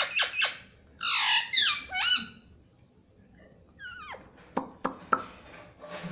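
Pet ring-necked parakeet squawking and chattering: a quick run of high calls that sweep up and down in the first two seconds, then softer short chirps and clicks about four to five seconds in.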